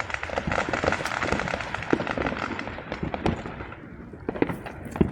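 Many fireworks and firecrackers going off: a continuous barrage of pops and bangs, with thick crackling over the first three seconds that thins out, and a sharp bang near the end.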